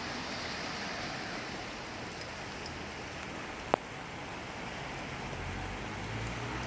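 Steady rain falling, an even hiss. A single sharp click stands out a little past halfway, and a low rumble comes in near the end.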